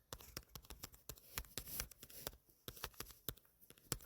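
Faint, irregular clicks and rustling: handling noise near the microphone.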